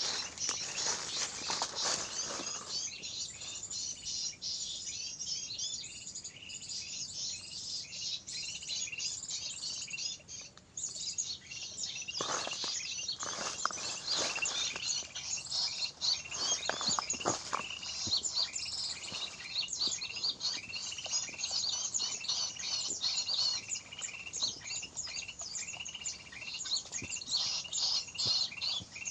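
Many small birds chirping densely and without pause, a busy chorus of high-pitched tweets. A few short knocks or rustles sound near the start and again around the middle.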